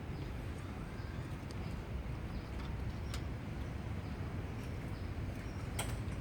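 Pet lovebird making a few faint, short chirps and clicks over a steady low background hum, with two sharp clicks, one about halfway through and one near the end.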